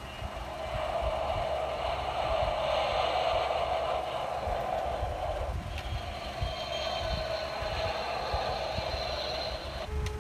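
Toy airplane's electronic jet-engine sound effect playing from its small speaker, a steady whooshing engine noise. A button click about halfway through restarts it with a brighter tone, and it cuts off suddenly near the end.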